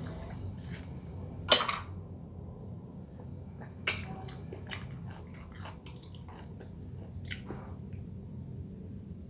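Eating starch and okra soup: chewing and small clicking mouth and hand noises over a low steady hum, with a loud sharp sound about a second and a half in and a smaller one near four seconds.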